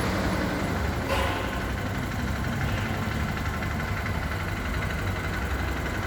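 Four-stroke motorcycle engine idling steadily, with a short click about a second in.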